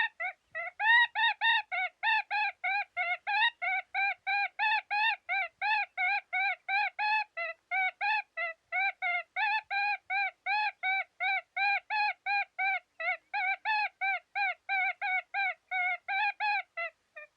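Predator game call playing a prey sound: short high-pitched notes repeated evenly, about three or four a second, cutting off abruptly near the end.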